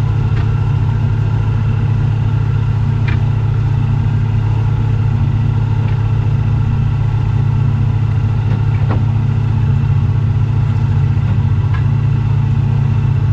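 Seine boat's engine running steadily, an even low drone, with a few faint clicks.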